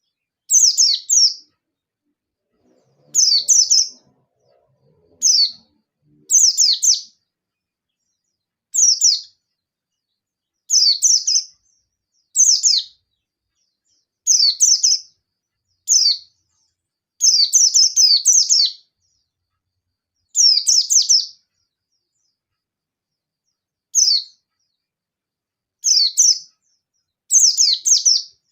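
A white-eye (pleci dada kuning) giving short, high phrases of rapid chirps, each about half a second to a second long, repeated every second or two with brief pauses. This is the bird's challenging call to rivals.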